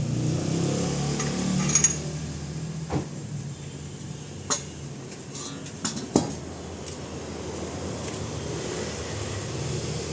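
A few sharp metallic clinks and knocks over a steady low mechanical hum.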